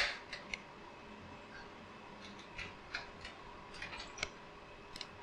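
Scattered light clicks and small taps, the sharpest one right at the start, over a faint steady hum.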